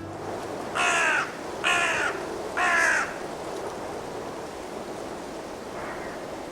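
A crow cawing: three loud, harsh caws about a second apart, then a fainter caw near the end.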